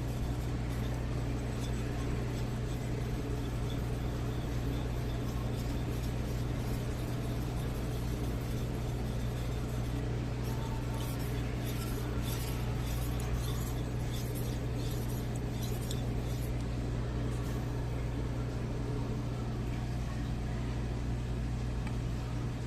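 A steady low mechanical hum, with a run of light ticks and scrapes in the middle.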